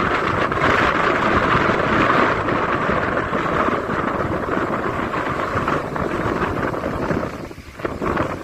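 Sea waves rushing and washing over the shore, with wind buffeting the microphone; the rush dies down near the end.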